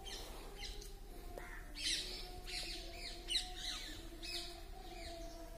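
Birds calling: a run of short, sharp chirps and squawks, the loudest about two seconds in and again about three and a half seconds in.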